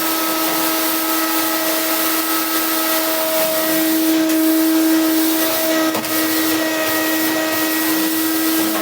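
Vacuum cleaner running steadily: a constant motor whine over a hiss of moving air, with a brief dip about six seconds in.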